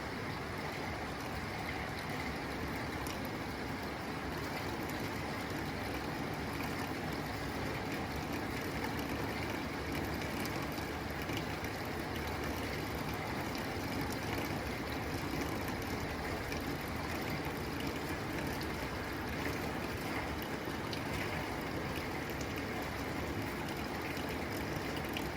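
Steady rain falling on a tin roof: an even, unbroken hiss of drops with no let-up.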